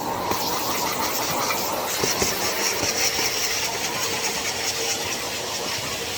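Henry HVR200 620 W canister vacuum cleaner running steadily, with a few light clicks as the nozzle is worked over a surface.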